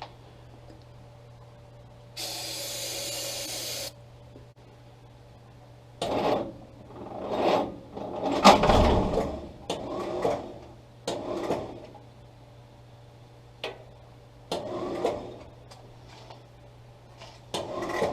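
A hiss of an aerosol can of starter fluid sprayed for under two seconds, then a series of short rasping whirs from the jeep's starter motor as the starter button is pressed again and again. The starter engages but does not turn the Kaiser L-134 engine over, which the owner takes for something stripped or the gear not meshing.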